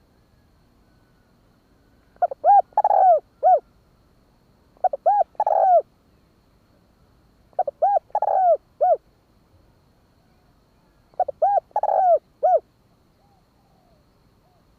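Spotted dove cooing: four phrases of several short, arched coos each, a few seconds apart.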